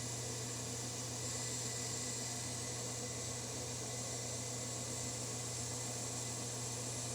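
Steady low hum with an even hiss and no distinct knocks or clicks: the continuous background noise of a small machine shop.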